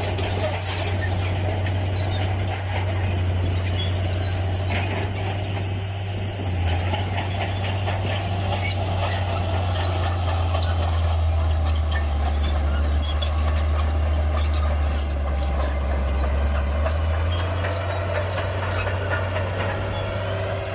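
Shantui bulldozer's diesel engine running under load, its low note getting heavier for about ten seconds in the middle, with light metallic ticks and squeaks from the steel tracks.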